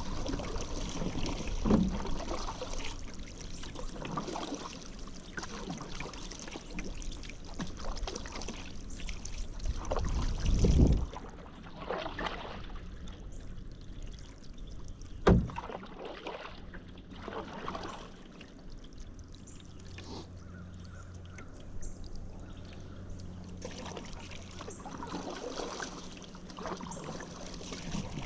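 Paddle strokes in river water: irregular splashes as the blade dips and water pours and trickles off it, with one sharp knock about fifteen seconds in.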